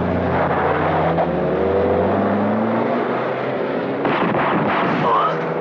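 Car engines revving hard and accelerating, their pitch climbing over the first few seconds, followed by a rougher, noisier stretch about four seconds in.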